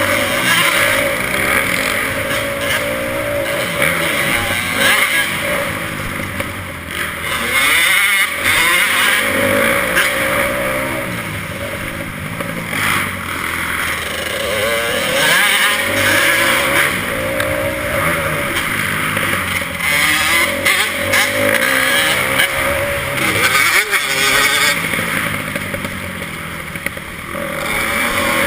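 Motocross dirt bike engine revving hard, its pitch climbing and dropping over and over as the throttle opens and closes.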